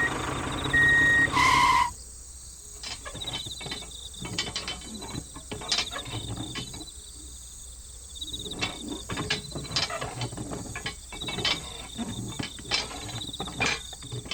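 Two short high beeps and a brief louder tone, then scattered irregular clicks and taps over a faint steady high whine.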